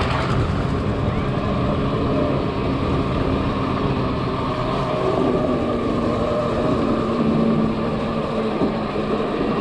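Motorcycle riding sound on a steep dirt climb: steady wind rumble on the camera microphone with a faint even motor tone underneath.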